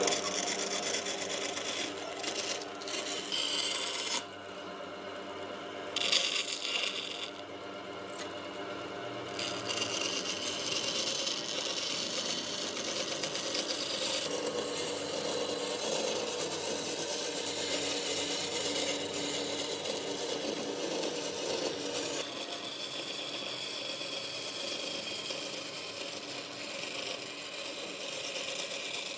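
Woodworking tool working on wood, a steady rasping, grinding noise that eases off briefly twice in the first ten seconds.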